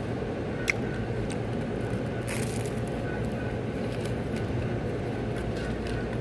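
Steady low engine hum and rumble. A sharp click comes about a second in, and a short rustle about two and a half seconds in.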